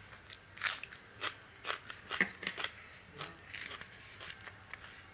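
A person chewing a mouthful of dal, rice and chapati close to the microphone: irregular wet crunching and smacking mouth sounds, several short crackles a second.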